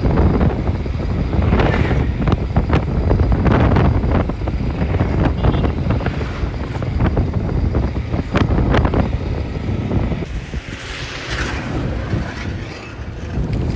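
Wind buffeting the microphone over the steady rumble of a moving road vehicle, with irregular knocks throughout and a brief rise in hiss near the end.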